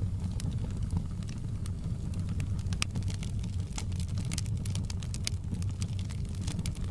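Wood fire crackling in a fireplace: a steady low rumble of the flames with irregular sharp pops and snaps, thickest about four to five seconds in.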